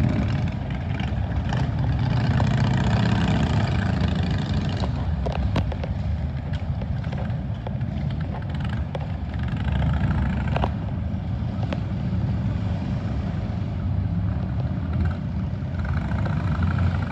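A group of motorcycles riding past one after another, engines running with a steady low drone that swells as each bike goes by.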